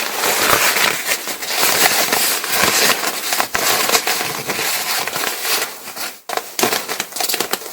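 Paraglider nylon fabric and repair material rustling and crinkling as they are handled, a dense run of small crackles and crinkles.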